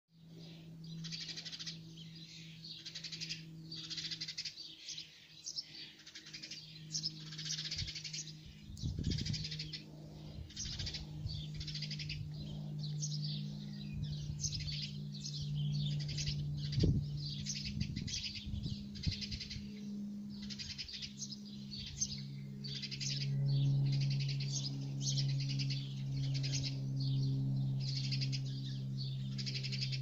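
Small bird chirping: a steady series of short, high-pitched chirps, roughly one a second, over a low steady hum, with a few soft bumps from handling.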